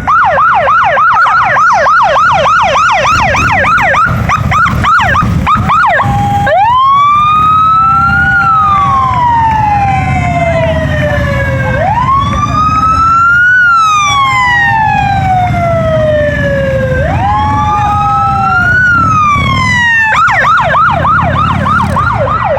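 Electronic siren of a Harley-Davidson police motorcycle, running a fast yelp for about six seconds, then switching to a slow wail that rises and falls three times, and going back to the fast yelp near the end, over a steady low rumble of motorcycle engines.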